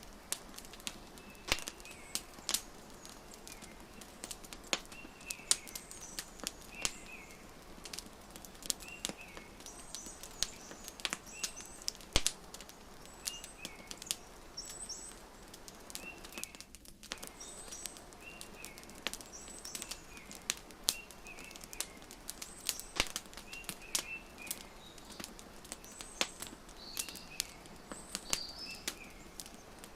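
Wood fire crackling with frequent sharp pops, while small birds chirp every second or two.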